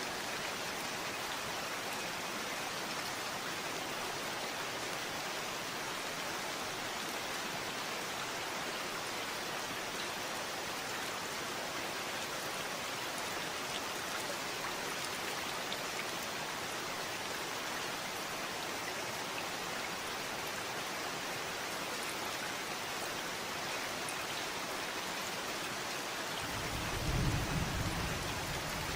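Steady rain falling in an even hiss. Near the end a low rumble of thunder comes in and swells briefly.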